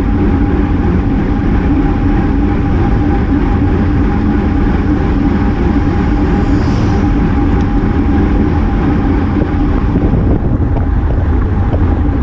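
Wind buffeting a GoPro microphone on a bicycle at race speed: a loud, steady rush of noise with a faint steady hum underneath.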